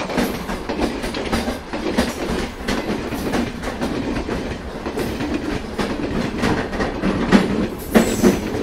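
Indian Railways passenger train running at speed, heard from the coach's open door or window: the wheels clatter over the track in a steady, irregular rattle of clicks, with a couple of sharper clacks near the end.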